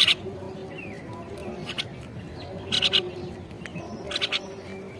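A bird giving short, loud calls, about four of them at irregular gaps of one to one and a half seconds.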